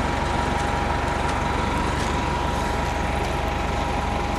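City bus diesel engine running steadily, with a steady whine above the street noise.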